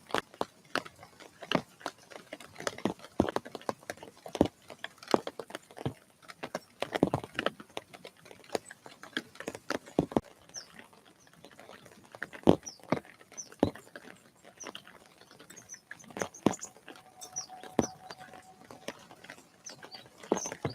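Irregular sharp taps and knocks at a bird feeder, with short, high chirps of small birds from about halfway through.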